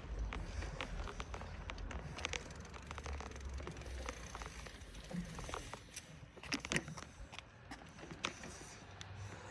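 Bicycle ride: wind rumbling on the microphone, easing after about four seconds, with scattered light clicks and rattles and a few sharper clicks a little past the middle.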